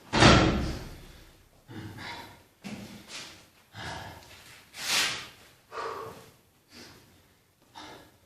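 A man breathing hard, out of breath from weight training: heavy exhales and gasps about once a second, the first the loudest, then tailing off.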